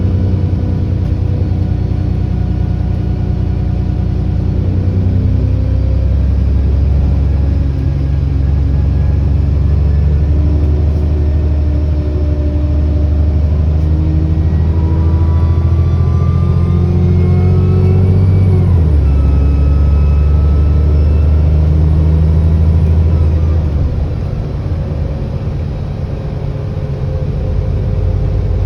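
ADL Enviro400 double-decker bus's diesel engine pulling the bus up through the gears, heard from on board, with a whining turbo that rises in pitch as it accelerates. The engine note drops at a gear change a little after two-thirds of the way through, then it eases off the throttle shortly after.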